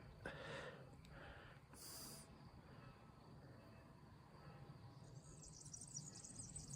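Faint outdoor quiet with insects chirring, a rapid high-pitched trill that comes in more clearly in the last couple of seconds, over a few soft rustles early on.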